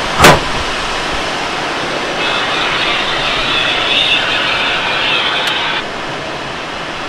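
Steady rush of airflow over a Blanik L-13 glider in flight in strong wind, with a single sharp knock a quarter second in, the loudest sound. About two seconds in, a higher hiss joins for some three and a half seconds, then cuts off abruptly.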